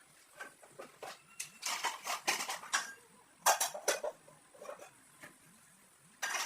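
Irregular clatters and clinks of kitchenware being handled, several in quick runs with a sharp one near the end.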